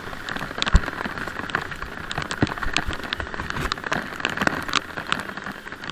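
Rain falling steadily, with many irregular sharp taps of raindrops striking close to the microphone.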